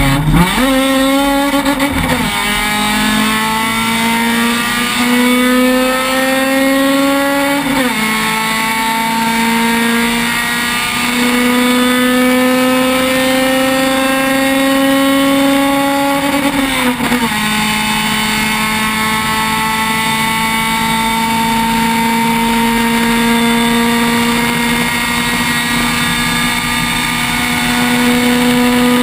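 Honda Civic race car engine heard from inside the cabin at full throttle. Its pitch climbs slowly through long pulls, and drops suddenly twice as it shifts up, after some quick dips and rises at the start.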